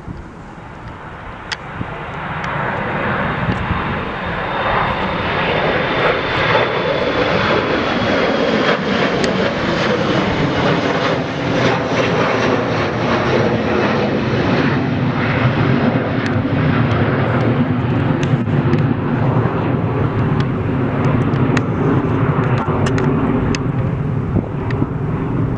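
Jet airliner's engines, building up over the first few seconds and then holding a loud, steady roar. A high whine in the roar slowly falls in pitch as the aircraft passes.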